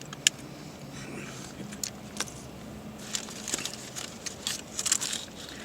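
Fast-food paper wrappers being handled and crinkled: a few sharp separate clicks, then a dense burst of crinkling from about three seconds in.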